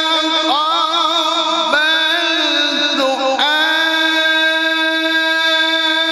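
A male qari's voice in Qur'anic tilawah, drawing out one long melismatic passage in a single breath. Quick wavering ornamental turns run through the first three seconds, then a steady held note, with a slight dip in pitch near the end.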